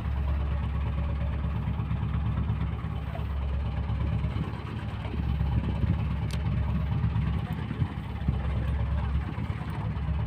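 Fishing boat's engine running steadily with a low hum.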